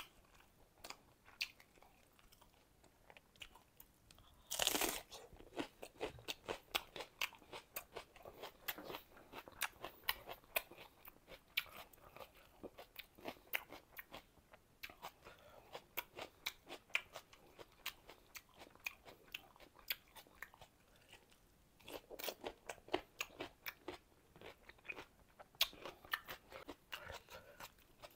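Close-miked eating sounds: steady wet chewing and crunching of a rice, fish curry and raw onion meal, with a loud crunch about five seconds in and another burst of crunching near the three-quarter mark.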